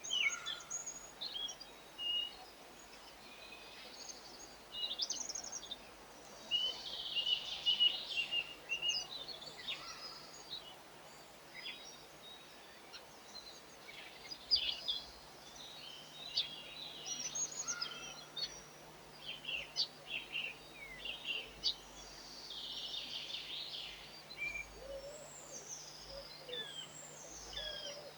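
Small songbirds chirping and twittering in quick, irregular runs of high notes, with a few low, hoot-like calls near the end.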